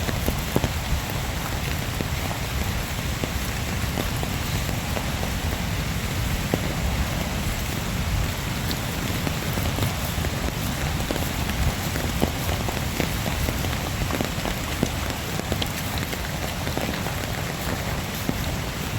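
Steady rain with many small drop impacts, over a continuous low rumble.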